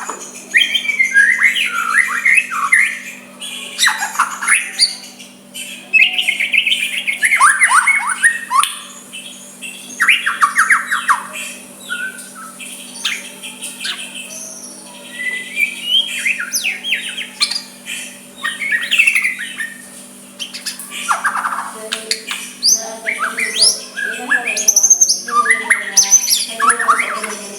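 White-rumped shama singing a varied song of rapid sweeping whistles, chirps and harsh squawky notes, in phrases of a few seconds separated by short pauses.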